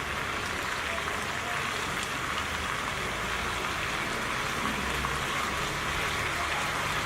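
Chicken pieces sizzling steadily in an oiled pan as they fry dry.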